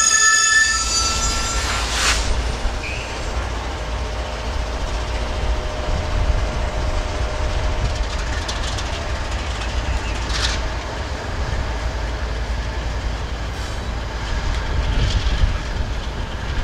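Caltrain commuter train on the rails. High wheel squeal dies away in the first second, leaving a steady low rumble. A sharp click comes about two seconds in, with a few more wheel-on-rail clicks later.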